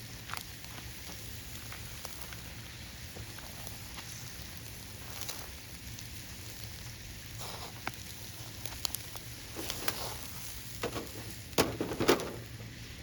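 Campfire crackling over a steady hiss, with scattered sharp pops that come more often and louder near the end.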